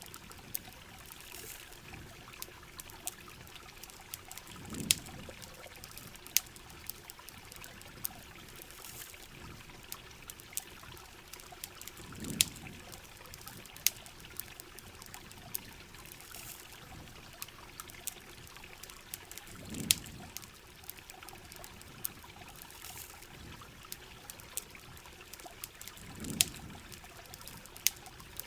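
Rain and running water as a steady hiss, with sharp campfire crackles scattered through it, and a low swell of pouring water about every seven to eight seconds.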